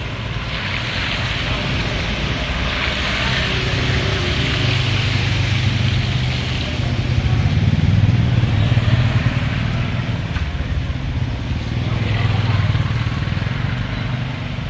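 An engine running steadily with a low hum, louder in the middle, under a hiss that swells and fades.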